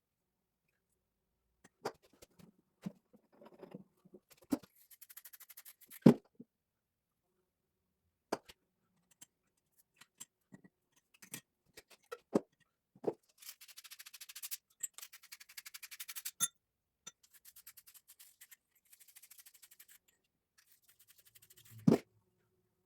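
Hand work on plumbing: scattered knocks and clicks of tools and pipe being handled, the loudest a sharp knock about six seconds in and another near the end, with several bursts of rapid rasping scraping a second or two long.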